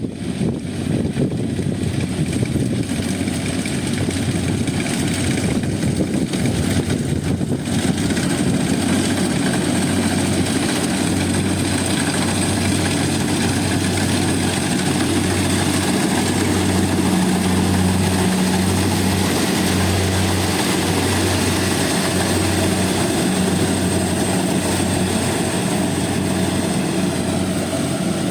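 Rice combine harvester running at work: a steady, loud engine drone with dense mechanical noise on top. From about ten seconds in, the low hum throbs in a slow, regular beat.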